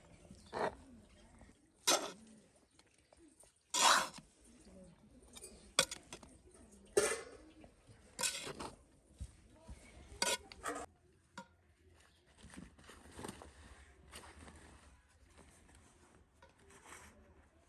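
Dishes, pots and metal utensils clinking and knocking in irregular strikes, the loudest about four seconds in, growing sparser and fainter near the end.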